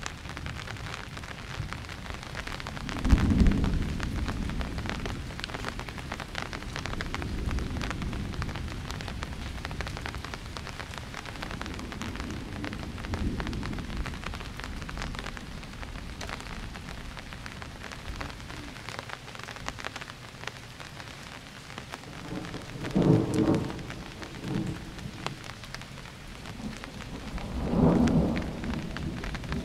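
Steady rain falling through a thunderstorm, with rumbling thunder: a sharp loud crack of thunder about three seconds in that rolls on, softer rumbles in the middle, and two more strong peals near the end.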